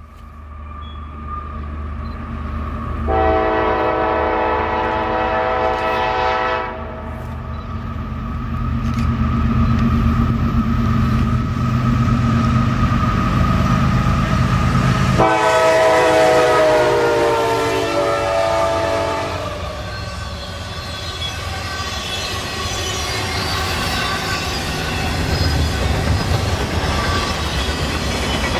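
Diesel freight locomotive passing close by and sounding its multi-chime air horn in two long blasts. The engine rumble is heavy until the locomotive passes about halfway through, and the second blast drops in pitch as it goes by. The train's cars then roll past with a steady clatter of wheels on rail.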